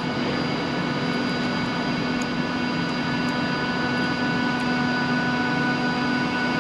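Electric train on the West Coast Main Line, its traction equipment whining steadily: several level, unchanging tones held together over a rushing noise.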